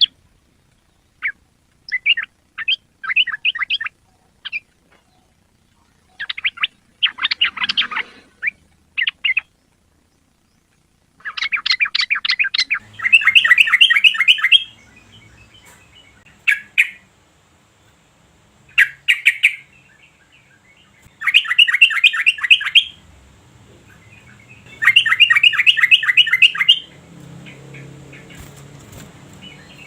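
Yellow-vented bulbul calling in short bursts of rapid chattering notes with pauses between, the bursts louder and longer in the second half.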